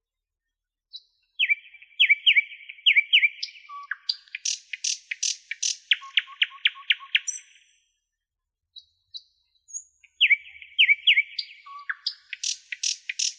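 A songbird sings two long, varied phrases with a pause of about two seconds between them. Each phrase opens with a run of quick downward-sliding whistles, then moves into rapid sharp notes over a few low soft notes.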